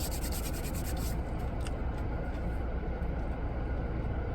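Steady low rumble inside a car's cabin. A quick, fast scratchy rubbing runs through the first second.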